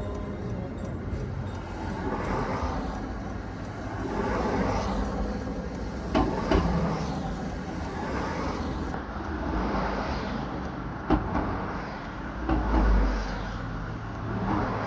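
Steady road-vehicle noise, with a couple of sharp knocks and a low rumble swelling briefly near the end.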